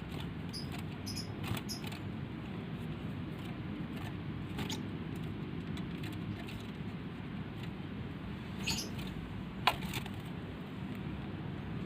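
Faint handling sounds at a small bird cage as a water cup is put in: a few short clicks and high squeaks over a steady low hum.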